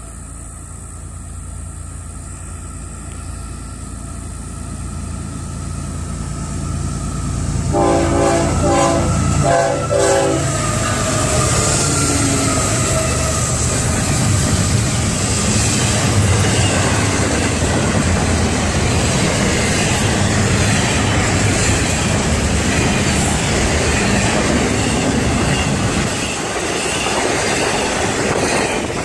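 Train approaching with a low rumble that grows louder, its locomotive horn sounding a chord about eight seconds in. Then the train passes close by with loud, steady wheel and rail noise.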